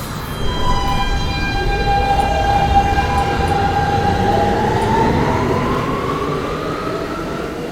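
New York City subway train (a G train) pulling out of the station: its traction motors whine in several steady tones, one of them rising in pitch as it speeds up, over the rumble of the wheels on the rails.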